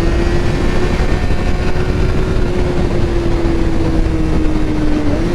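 Kawasaki ZX-6R 636 inline-four engine running at fairly steady revs under way, with heavy wind rush on the microphone. The engine pitch sags slightly, then steps up a little near the end.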